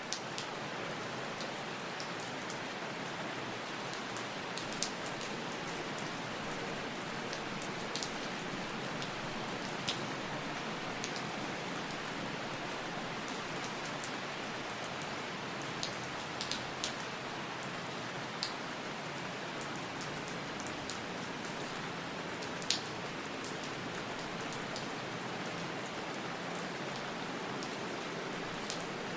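Steady rain falling on a surface, an even hiss with scattered sharper drips standing out now and then.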